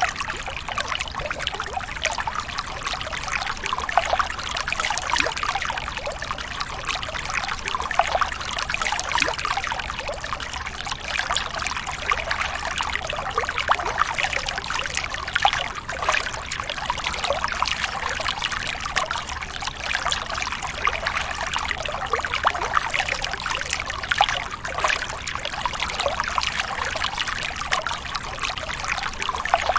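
Water trickling and pouring steadily from a small homemade water pump's outlet.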